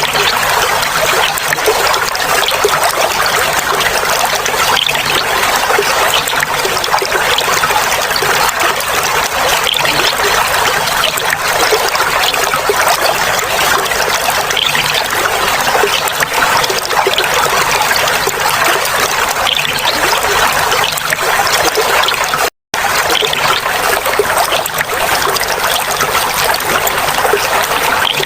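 Clear water flowing and trickling steadily, a continuous babbling splash. The sound cuts out completely for a split second about three-quarters of the way through.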